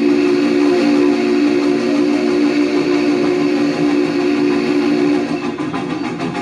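Steam locomotive's chime whistle blowing one long blast of about five seconds, a steady chord that cuts off shortly before the end, over the running noise of the train.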